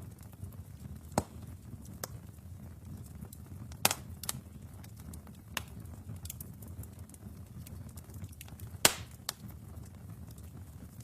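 Wood fire burning in a fireplace: a steady low rumble of flames with irregular sharp crackles and pops from the burning logs, the loudest pops about four seconds and nine seconds in.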